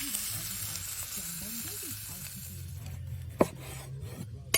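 Steak sizzling over the fire, the hiss dying away about two-thirds of the way through, followed by two sharp knocks about a second apart.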